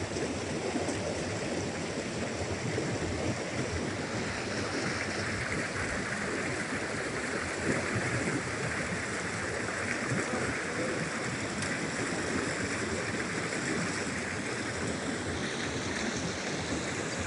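Water of a forest stream rushing steadily over its bed.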